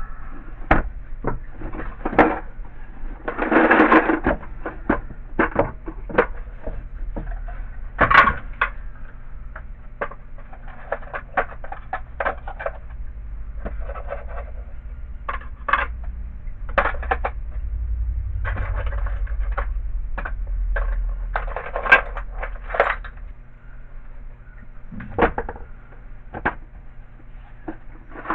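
Hands rummaging through a drawer of tools and small parts: irregular clicks, knocks and clinks of hard items being moved about, with short rustles in between, over a low steady hum.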